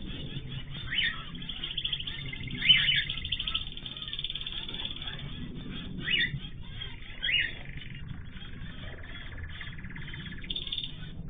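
Mixed aviary of cage birds chirping and twittering steadily. Four loud, sharp calls stand out: about a second in, near three seconds, around six seconds and near seven and a half seconds.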